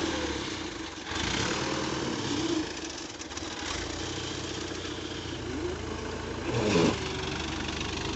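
Tractor engine running steadily at idle, with a brief louder sliding sound a little before the seven-second mark.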